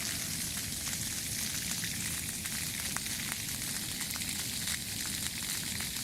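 Water spraying at a dog wash station with a steady hiss, with a few faint ticks of drops.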